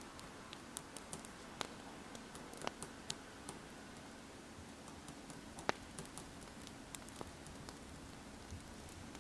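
Wood fire crackling: irregular sharp pops and snaps over a soft steady hiss, the loudest pop a little before six seconds in.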